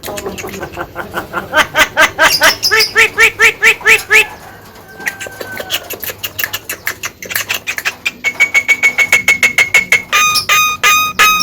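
Javan myna (jalak kebo) singing a loud, varied song: fast runs of rapidly repeated harsh notes, a held whistle, then a quick string of clear repeated notes near the end.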